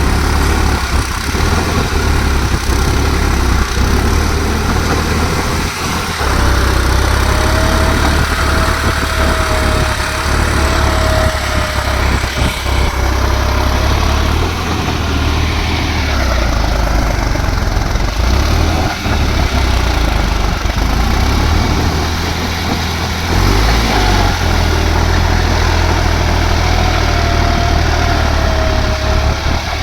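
New Holland tractor's diesel engine running steadily with a heavy low rumble, and a thin wavering whine rising over it for a few seconds about a third of the way in and again near the end.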